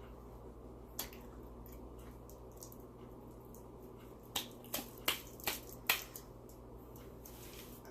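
Close-up eating sounds: chewing with a click about a second in, then a quick run of about five sharp wet mouth smacks.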